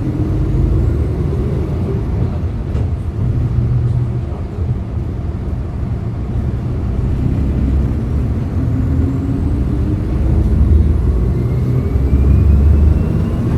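Hyundai Green City CNG city bus engine running under way, heard from inside the bus: a low drone whose pitch slowly rises and falls as the bus speeds up and eases off.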